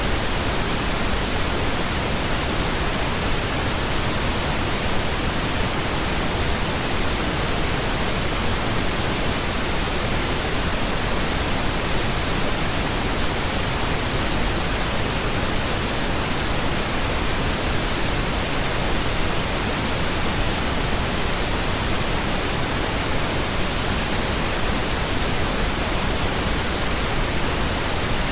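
Steady pink noise: an even, unchanging hiss spread across all pitches, without breaks or events.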